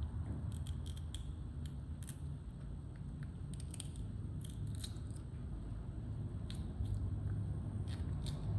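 Small monkeys biting and chewing raw vegetables: irregular crisp clicks and snaps over a steady low rumble.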